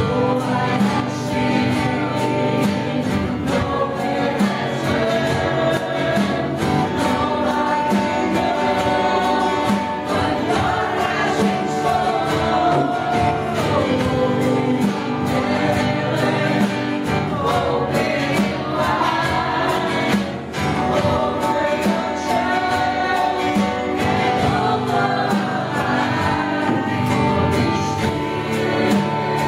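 A congregation and worship band singing a gospel praise song, with many voices together over instrumental accompaniment.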